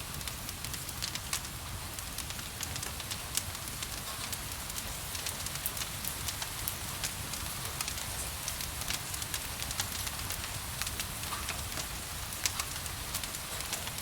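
Wood fire crackling with frequent irregular pops, over a steady hiss of rain.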